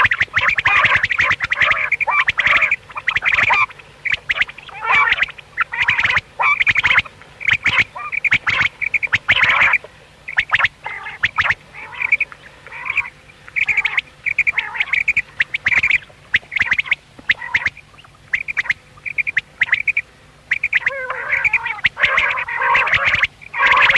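Common quail calling over and over in quick runs of short, high notes. The calls come thickest in the first few seconds and again near the end, with more spaced-out calls in between.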